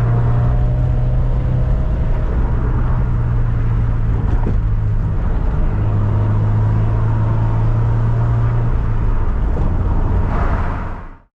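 Toyota 86's FA20 flat-four engine running with a steady low hum, the car under way or idling, fading out near the end.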